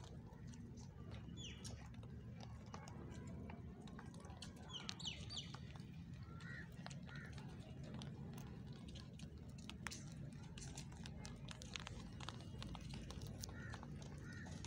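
Scattered short bird chirps and calls over a steady low rumble, with many small crisp clicks mixed in.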